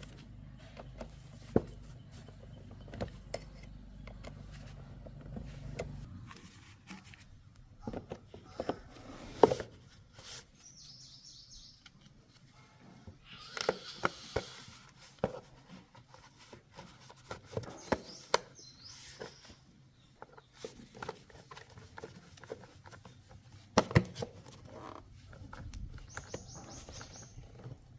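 Scattered clicks and knocks of hand work on small parts, with a low steady hum that stops about six seconds in. A bird chirps briefly three times.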